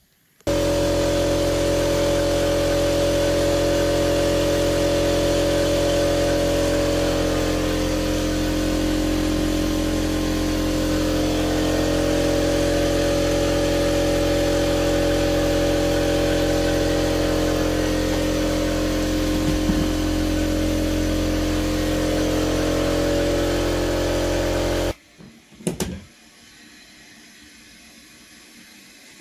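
A loud, steady mechanical hum with many even tones that holds without change, starting abruptly and cutting off suddenly near the end, followed by a couple of brief knocks.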